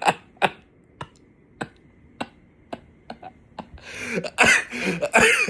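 A person's breathy, wheezing bursts of laughter, starting about four seconds in, after a few scattered sharp clicks.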